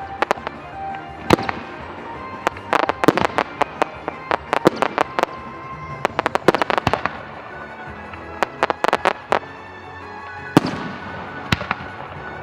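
Aerial fireworks going off in rapid clusters of sharp bangs, with one big report and its echo about ten seconds in, over background music.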